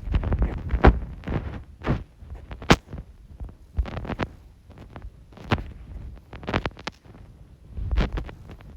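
Knee hockey play with plastic mini sticks: irregular sharp clacks of sticks striking each other and the ball, mixed with low thumps on the floor.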